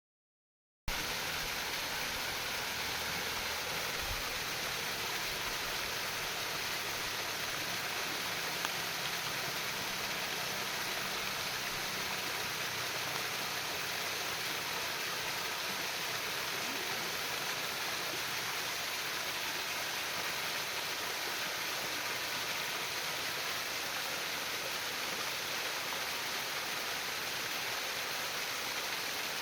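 Running water from a stream or small river, a steady babbling flow that starts abruptly about a second in.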